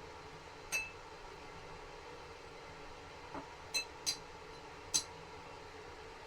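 Dishes, glassware and cutlery clinking as they are handled, about five light clinks, most of them bunched near the end, over a faint steady hum.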